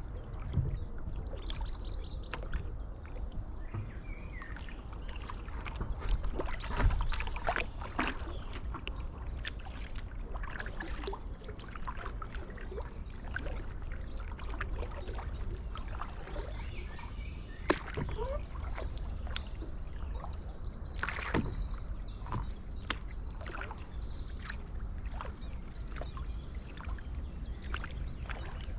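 A paddle dipping and splashing in canal water, stroke after stroke, over a steady low rumble of wind on the microphone. Partway through, a bird sings a quick series of high chirps for a few seconds.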